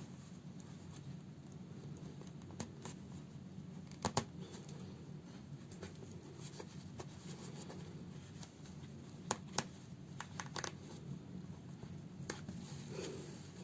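Hand-sewing a fabric house slipper with needle and thread: soft rustling and scratching of cloth and thread, with several sharp clicks, the loudest a pair about four seconds in, over a steady low hum.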